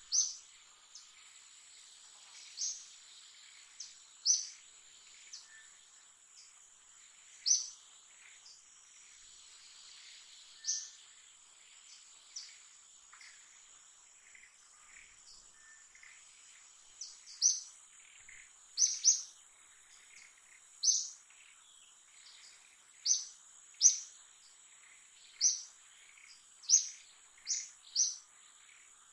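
A bird giving short, sharp, high chirps, spaced a few seconds apart at first and coming about once a second from about halfway, over a steady high-pitched insect drone.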